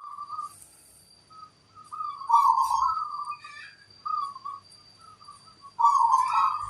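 Zebra dove (perkutut) cooing its trilling song in repeated phrases, loudest about two seconds in and again near the end. A faint steady high whine sits under it.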